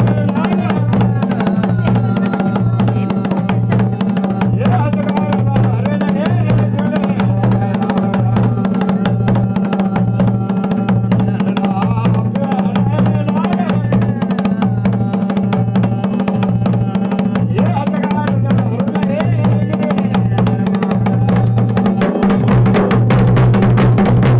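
Dhol and damau drums playing a Mandan folk rhythm, with a heavy low beat pulsing a little under once a second. About two seconds before the end, the drumming gets louder and the low beat runs together into a denser pattern.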